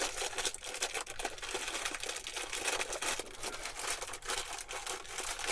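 Continuous fine crackling and rustling, a dense patter of tiny clicks with no clear beat.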